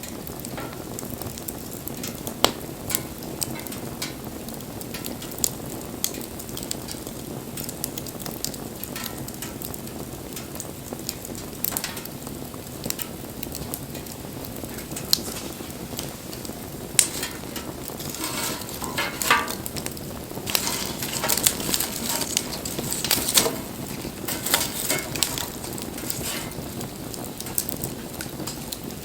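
Wood fire burning: a steady low rush of flame with sharp crackles and pops, coming thicker about two-thirds of the way through.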